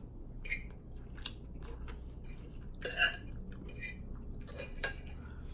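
Cutlery clinking and scraping against a dish while food is scooped up: about five sharp clinks, the loudest about three seconds in.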